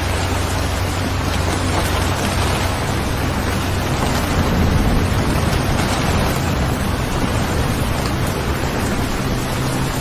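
Steady rain, an even hiss of falling water, with a low rumble that swells and eases off around the middle.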